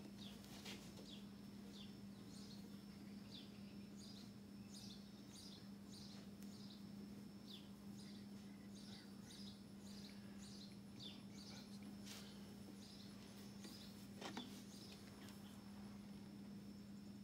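Faint bird chirps: short falling notes, several in quick runs, over a low steady hum.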